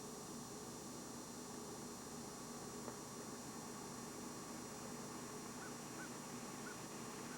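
Steady faint hiss and hum of an old camcorder recording, with a few faint short chirps in the second half.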